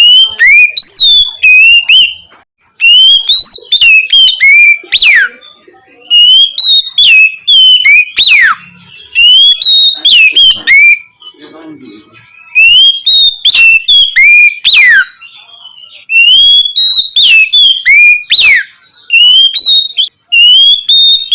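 Oriental magpie-robin (kacer) singing its loud, clear 'ngeplong' song. It gives repeated bursts of whistled notes that rise and fall, many ending in a steep downward-sweeping whistle, with short pauses between the phrases.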